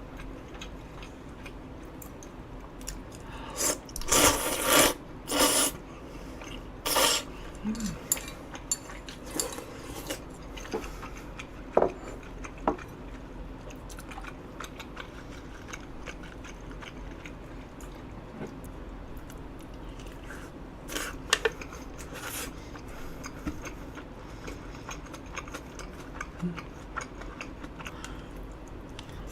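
Eating sounds: utensils clinking and scraping against a bowl in scattered clusters, a few strikes about four to seven seconds in and again a little after twenty seconds, with quiet chewing between.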